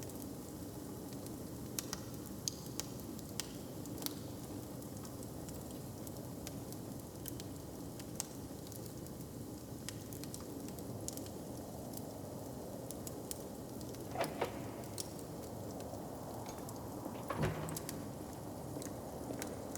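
Open log fire crackling, with scattered sharp pops over a steady low rumble, and two louder knocks in the second half.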